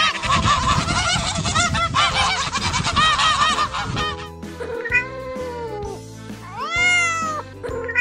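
A flock of domestic geese honking in a rapid, overlapping clamour, giving way about halfway through to a house cat's long meows, one after another, over background music.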